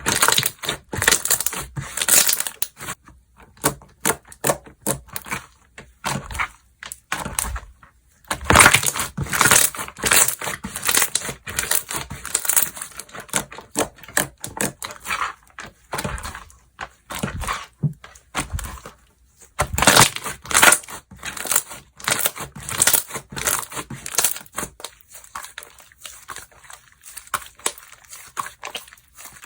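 Slime being squeezed and pressed by hand, giving dense runs of crackling, clicking pops with short pauses between handfuls; the crackling gets softer in the last few seconds.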